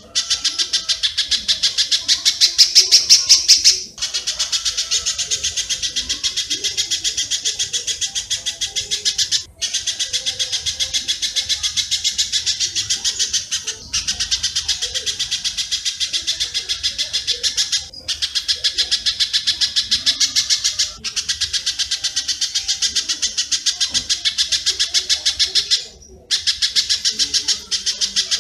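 A birdsong training recording of spiderhunter (pijantung) calls mixed with swiftlet (walet) calls: rapid, high, evenly repeated chirps in phrases of about four seconds, each followed by a brief break.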